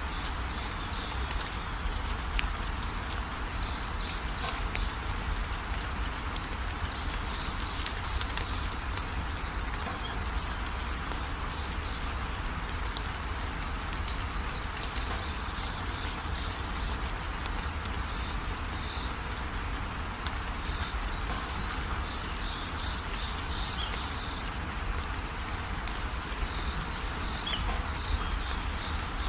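Steady rain with songbirds chirping in short high twittering bouts every few seconds, over a low steady rumble.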